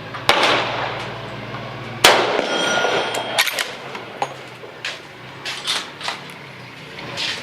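Two rifle shots from a Winchester 1895 in 7.62×54R, about 1.7 seconds apart, the second followed by the short metallic ring of a steel target being hit. A few lighter clicks follow.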